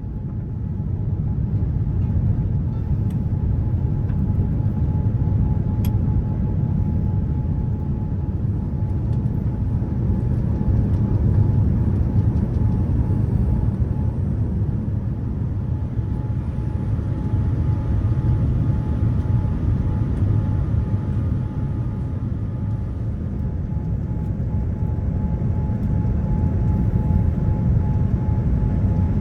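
Boeing 787-9 cabin noise from its GEnx jet engines and airflow: a steady low rumble with a faint, steady whine.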